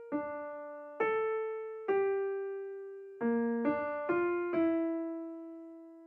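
Background music: a slow keyboard melody on an electric-piano sound, single notes struck about once a second and left to ring and fade.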